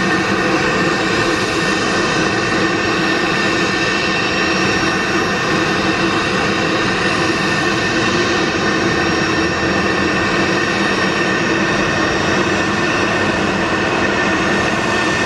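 Boeing 737-800's CFM56-7B jet engines running steadily, a loud, even whine of several steady tones that holds the same pitch and level throughout.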